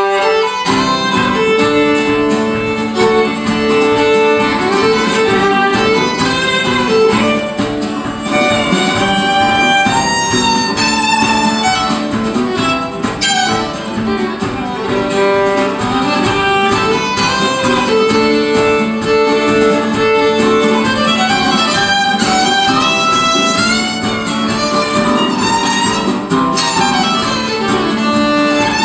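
Live instrumental break of a folk-rock song: a violin plays gliding melodic lines over plucked and strummed guitar, cutting in abruptly at the start.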